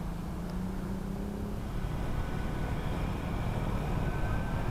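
Road traffic heard from a moving motorcycle: a steady low rumble of wind and passing vehicles, with a faint thin tone rising slightly near the end.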